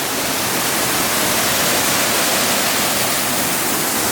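Waterfall rushing steadily: a loud, even roar of falling water.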